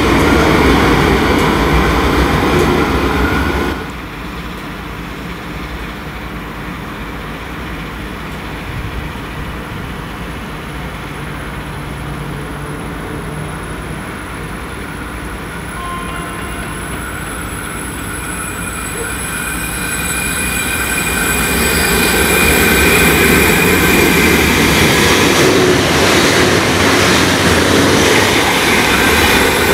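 An electric suburban train runs for the first few seconds, then cuts off abruptly. A V/Line VLocity diesel multiple unit then approaches, its engine and wheel noise growing steadily louder until it runs past close by in the last several seconds.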